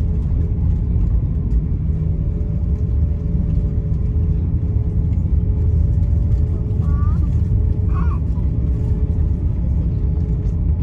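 Airbus A350-900 cabin rumble during taxi, its Rolls-Royce Trent XWB engines at idle giving a steady hum over a deep, even rumble. Faint voices are heard briefly about seven and eight seconds in.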